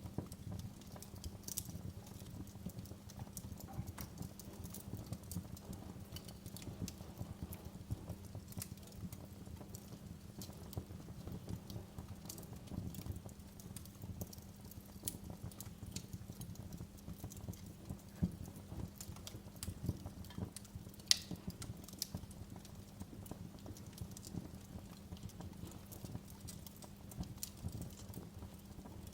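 Wood fire crackling in a fireplace: a steady low rumble of burning with irregular pops and snaps, one louder snap about two-thirds of the way through.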